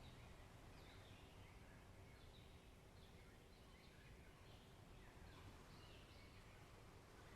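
Faint forest ambience: small birds chirping sporadically, a few short calls every second or so, over a low steady background rush.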